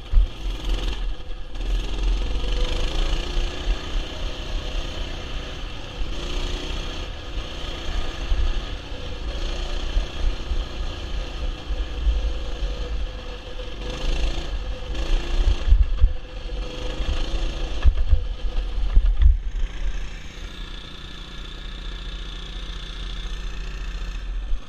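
Small mini bike engine running as it is ridden, its pitch rising and falling with the throttle, over a heavy low rumble from wind buffeting the microphone. For the last few seconds it settles steadier and quieter.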